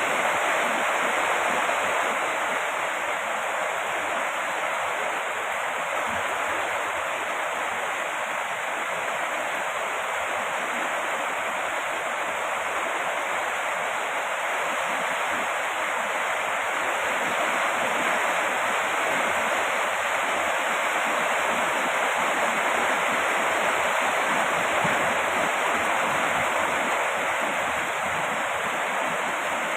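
Heavy rain falling: a steady, even hiss with no single drops standing out.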